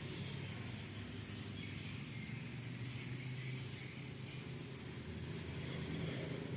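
Steady outdoor background noise with a low, even hum underneath, cutting off suddenly at the end.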